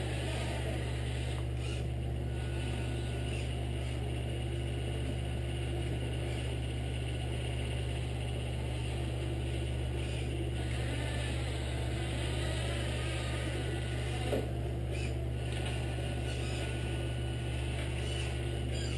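Steady low mechanical drone from a 1/14 scale radio-controlled model truck running, with one short click about fourteen seconds in.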